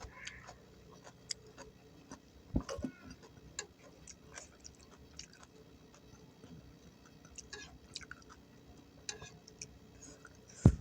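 Close-miked chewing of vegetables in peanut sauce: scattered soft crunches and wet mouth clicks, with a sharper knock about two and a half seconds in and another near the end.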